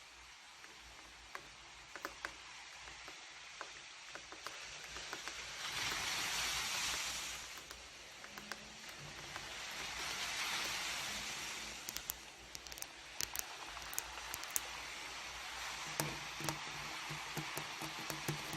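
Rain falling steadily, with many individual drops ticking close by. It swells heavier twice, about six seconds in and again around ten seconds in.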